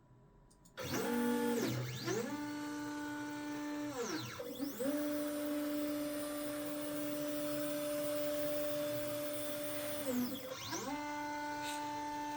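Ikier K1 Pro Max 70 W laser engraver squealing as its head moves, starting about a second in. It is a steady high tone that sweeps up as each move starts, holds, then sweeps down as it stops, four moves in all, the longest about five seconds. The owner hears this squeak as a fault in a machine that is not lasering.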